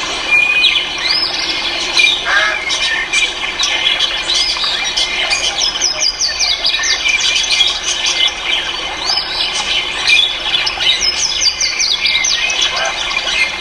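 Many cage birds calling at once: a dense, unbroken chorus of squawks and chirps, short calls sweeping up and down over one another.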